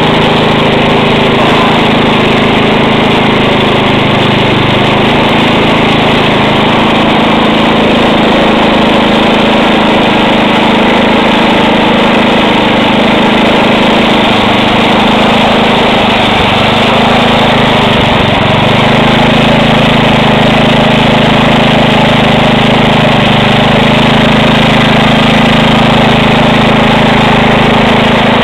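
Tecumseh 10 hp single-cylinder four-stroke engine on a snowblower, running steadily at a constant speed. Its note wavers briefly about two-thirds of the way through, then settles back.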